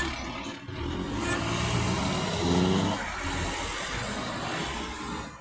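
Heavy truck engine running on the road, its revs rising briefly about two and a half seconds in, over tyre and road noise.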